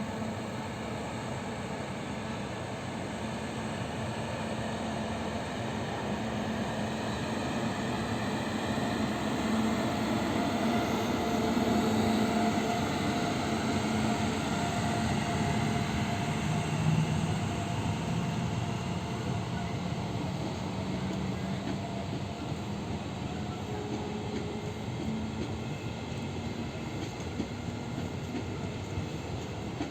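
A train running along the track with a steady rumble and faint shifting whine. It swells a little before halfway and eases off again, with one sharp knock just past the middle.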